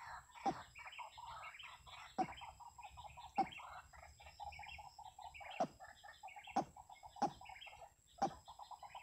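Several birds calling at once: busy chirping, a fast pulsing trill, and loud, sharp calls that sweep down in pitch about once a second or so.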